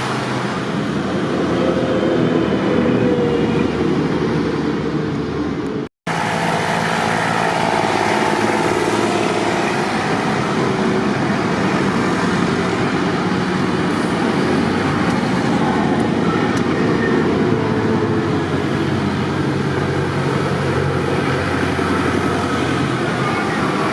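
Tractor engines running steadily, with a brief dropout about six seconds in.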